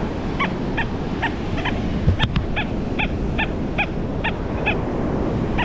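Metal detector's short, high target tones beeping again and again, about two or three a second, over steady surf and wind noise, with one sharp knock about two seconds in.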